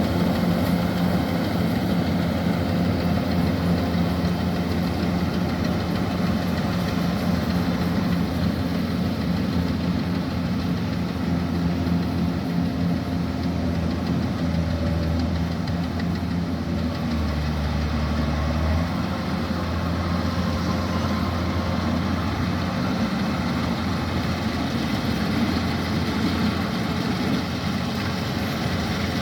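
Kubota DC-105X combine harvester running steadily, its diesel engine giving a low drone with a brief dip in engine speed a little past halfway.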